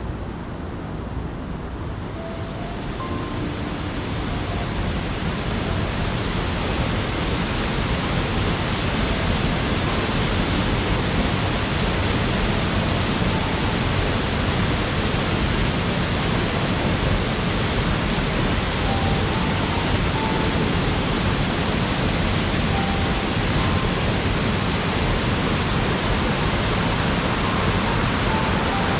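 Waterfall: a steady rush of falling, splashing water that swells over the first few seconds and then holds even.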